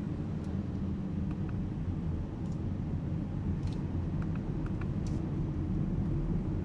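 Steady low road and tyre rumble of an Alpine A390 GT electric car on the move, slowly growing louder, with a few faint scattered ticks.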